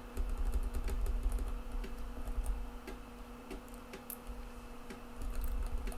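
TEAC FD-235F 3.5-inch floppy drive reading a disk: irregular clicking of the head stepping across the tracks, over a low steady hum.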